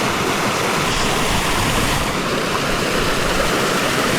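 Steady rushing of a seasonal waterfall, an even, unbroken hiss of falling water.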